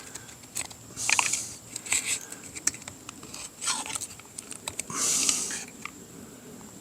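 Handling of small engine parts: scattered clicks and a few short rustling, hiss-like bursts, the longest about half a second near the end, over a faint steady high-pitched tone.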